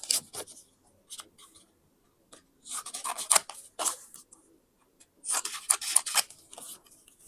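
Scissors cutting paper: a brief snip at the start, then two runs of crisp snipping and rustling about two seconds apart.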